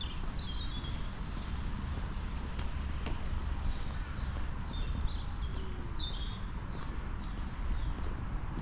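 Small songbirds chirping and trilling in short calls, busiest near the start and again about six seconds in, over a steady low rumble.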